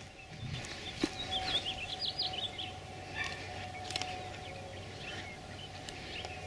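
Small birds chirping: a quick run of short, high chirps about a second and a half in, then a few single chirps, over a faint steady hum.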